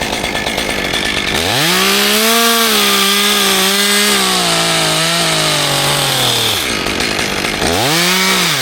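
Two-stroke chainsaw at full throttle cutting through dead oak: the engine note rises, holds, then sinks steadily over about five seconds as the chain loads up in the wood, drops off, and is revved up and eased off again near the end.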